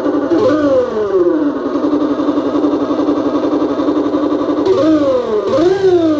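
Electronic 'big bike' sound-effect module playing a synthesized motorcycle engine: a steady buzzing idle tone, broken by simulated revs that jump up and slide back down in pitch, once about half a second in and twice in quick succession near the end.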